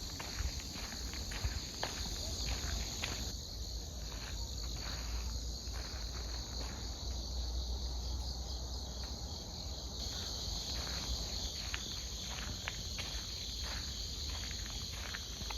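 Autumn grass insects chirping in a steady, high, continuous chorus, with a walker's footsteps on the path in a regular pace that thins out in the middle.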